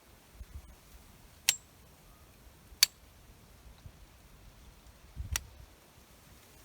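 Three sharp clicks over a faint background, the last with a low thump, like small objects being handled.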